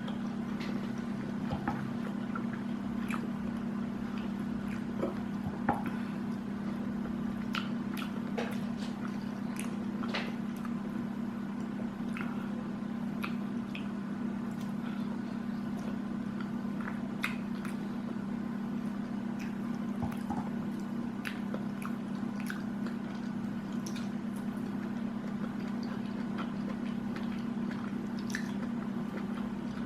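Close-up eating sounds: wet chewing and squishing of food, with scattered small clicks and taps, over a steady low hum.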